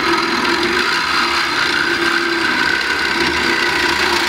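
Reciprocating saw (Sawzall) running steadily as it cuts through a steel exhaust pipe.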